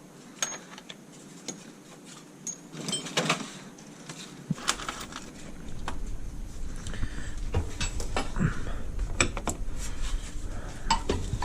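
Scattered metallic clinks and taps of bolts, washers and hand tools as an engine is bolted onto its mounting plate, with a low rumble underneath from about halfway in.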